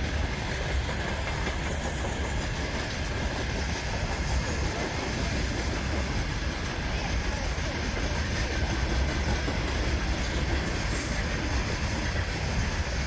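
Freight train wagons rolling past close by: a steady, continuous rumble of steel wheels on the rails with some clatter.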